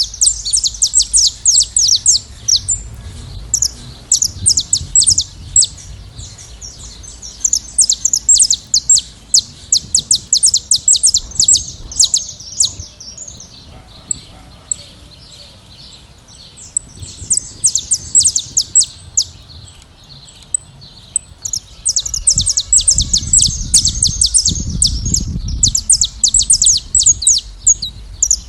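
A flock of saffron finches chirping and singing: rapid runs of sharp, high chirps that thin out for a second or two a few times. A low rumble comes in about three-quarters of the way through.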